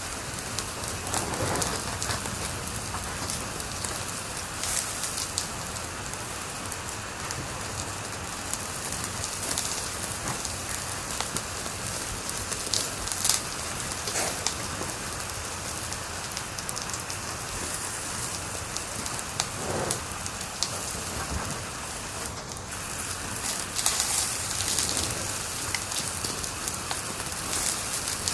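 Wood fire crackling steadily: a constant hiss full of small pops, with a few louder snaps, the sharpest about 13 seconds in.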